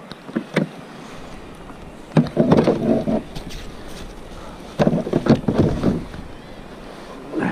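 Two bouts of rapid knocking and rattling on a plastic sea kayak, each about a second long, after a couple of single clicks, over steady background noise on the water.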